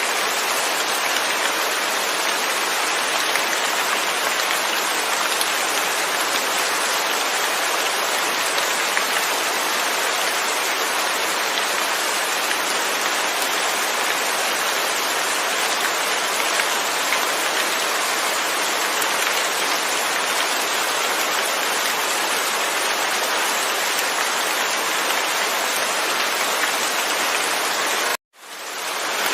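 Steady rain with no thunder, an even dense hiss of falling drops. About 28 seconds in it drops out briefly to silence and fades back in.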